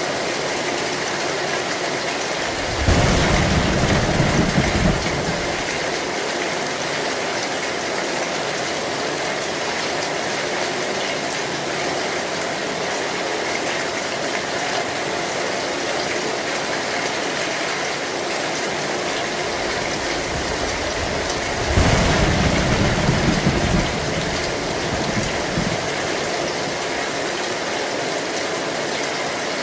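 Heavy rain falling steadily on an old metal roof. Thunder rumbles twice, about three seconds in and again about twenty-two seconds in, each roll lasting around two seconds.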